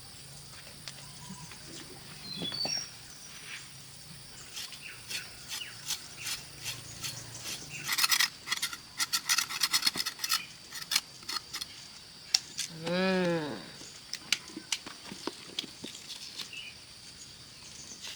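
Rapid, irregular sharp clicks and scrapes, densest in the middle, over a steady high-pitched hum. Near two-thirds of the way through comes one rising-and-falling pitched call.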